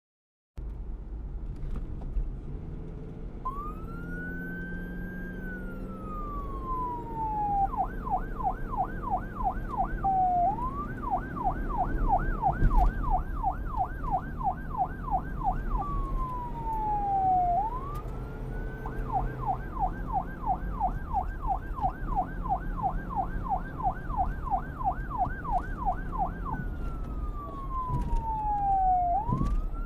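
Electronic emergency-vehicle siren, police style, switching between a slow rising-and-falling wail and a fast yelp warbling about four times a second, over a low vehicle rumble.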